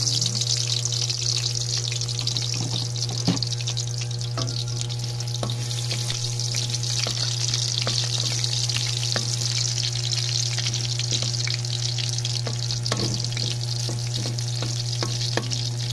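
Strips of ginger sizzling in hot oil in a stainless steel wok, a steady hiss, with a wooden spatula stirring and knocking against the pan now and then, the sharpest knock about three seconds in. A steady low hum runs underneath.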